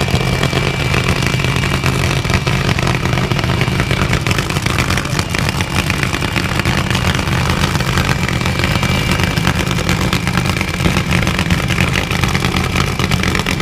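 A steady engine running at an even pitch, neither revving up nor dying away.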